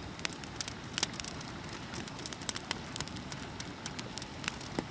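Wood campfire crackling: irregular sharp pops and snaps, several a second, over a steady hiss.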